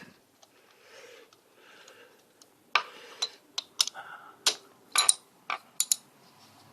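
3/8-inch ratchet on a spark plug socket and extension, clicking in a string of sharp, irregularly spaced clicks starting about three seconds in as it is worked back and forth to loosen a spark plug.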